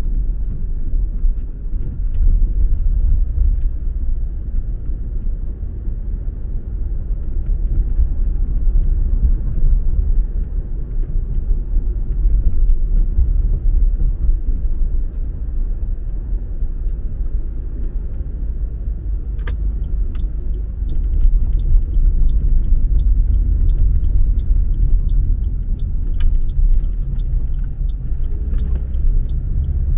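Car driving on city roads: steady low rumble of engine and tyres. About two-thirds of the way through, a run of faint, evenly spaced ticks comes in.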